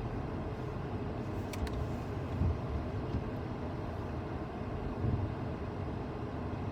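Car driving on a snowy road, heard from inside the cabin: a steady low rumble of engine and tyres, with a couple of faint clicks about a second and a half in.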